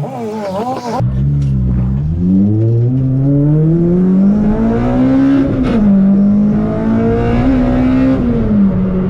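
Toyota Corolla T-Sport's four-cylinder engine accelerating hard, heard from inside the car: the revs climb for about four seconds, drop at a gear change about five and a half seconds in, climb a little again and drop once more near the end.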